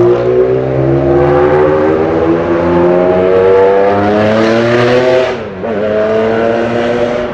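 Sports car engine accelerating hard, its pitch rising steadily for about five seconds, then dropping sharply with a brief dip in level at an upshift, and pulling again in the next gear.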